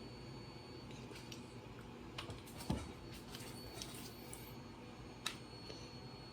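A scattering of small clicks and taps, with a louder knock a little before the middle and a sharp click near the end, over a faint steady room hum.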